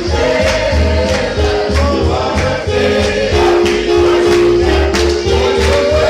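Gospel music: a choir singing with a tambourine shaken on the beat over a steady bass pulse.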